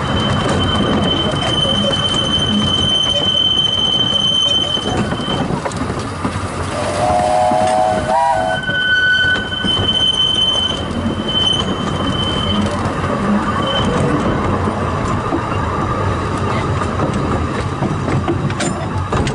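Narrow-gauge train coaches rumbling and clattering along the track, with the wheels squealing in a thin, steady high tone on the curves. About seven seconds in, the locomotive sounds a short warning blast lasting under two seconds that rises in pitch at the end.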